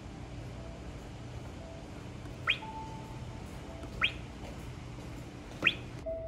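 A bird gives three short rising chirps about a second and a half apart, over a steady low rumble.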